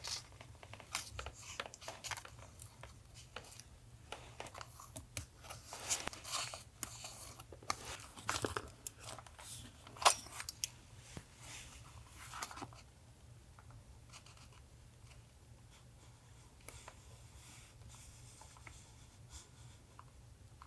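Paper being handled for a journal collage: rustling, crinkling and tearing, with sharp clicks and snaps, busy for about twelve seconds and then sparse and quieter. A steady low hum runs underneath.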